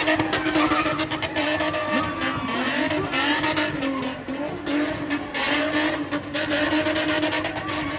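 A spinning car with its engine held high in the revs, the engine note wavering up and down. Over it runs the surging hiss and squeal of the wheelspinning tyres.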